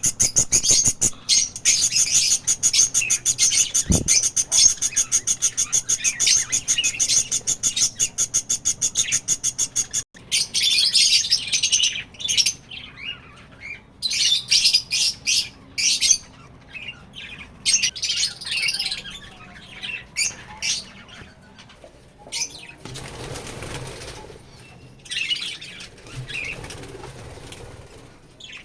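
A colony of budgerigars chirping and fluttering their wings. A fast, even run of sharp high sounds fills about the first ten seconds, breaks off suddenly, and gives way to scattered bursts of chirps.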